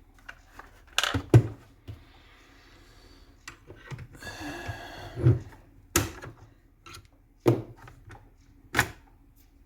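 Sharp clicks and knocks of an airsoft M14 rifle being handled and taken apart by hand, with a longer scraping rattle about four seconds in.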